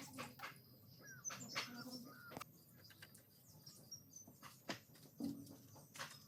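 Faint scattered clicks and light taps, the loudest about a second and a half in, about two and a half seconds in, and near the end, with a few faint bird chirps in the background.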